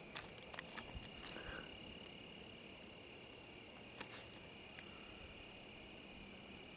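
Faint, steady, high-pitched insect trill, with a few light clicks and rustles in the first second and a half and again about four seconds in.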